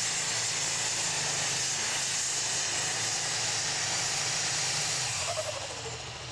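Super stock pulling tractor with four turbochargers at full power under load: a loud, steady rushing hiss of the turbos over the engine's low drone. About five seconds in, the pull ends and the sound drops, with a short falling whistle as the turbos wind down.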